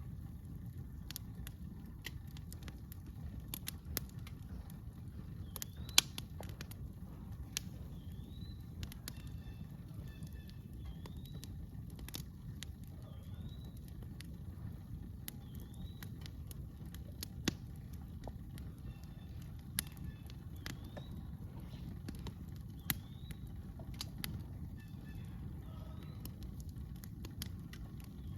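Campfire crackling, with scattered sharp pops over a steady low rumble. A short rising chirp repeats every second or two through much of it.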